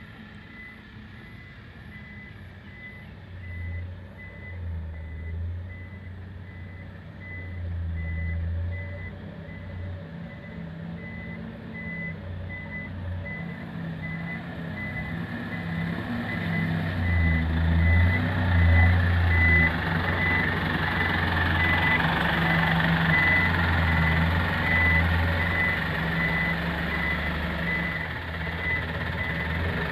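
Dump truck reversing with its backup alarm beeping steadily over the diesel engine, which grows louder partway through as the truck comes closer.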